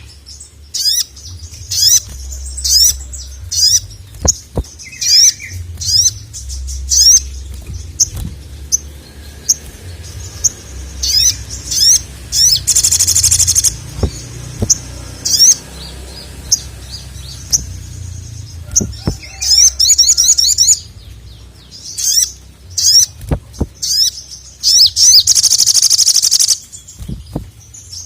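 Male sogok ontong (little spiderhunter) singing loudly: a string of short, high, rapid chirping phrases with brief gaps between them, breaking into dense, fast trills about halfway through and again near the end.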